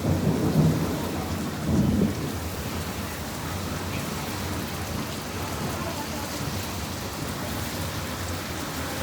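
Heavy monsoon rain pouring steadily, with a low rumble of thunder in the first two seconds that fades away.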